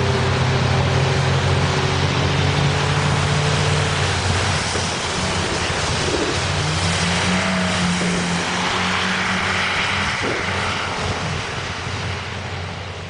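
A heavy vehicle's engine running under a loud rushing noise, its pitch rising about six seconds in and then holding.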